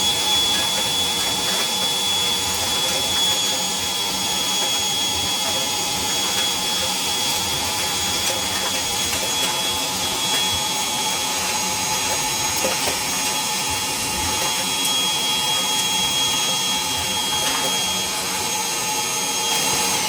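Parkside PWDA 20 Li A2 cordless 20 V wet and dry vacuum running steadily with a high-pitched motor whine and rushing air, sucking up brick debris.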